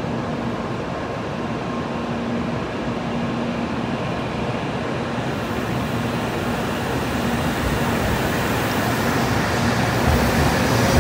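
N700 series Shinkansen trainset pulling out of the station and gathering speed as it passes close by. Its running noise grows steadily louder, gaining hiss in the second half as the cars go by faster.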